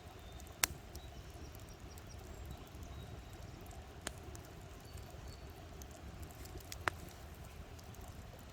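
Campfire burning with a steady low rush and scattered faint crackles, broken by three sharp pops of burning wood, the first and last the loudest.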